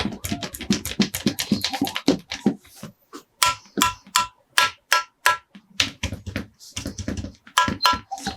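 Hands handling plastic toys and packaging: a quick run of clicks and taps for about three seconds, then separate sharp clicks two or three a second, a few with a short ringing tone.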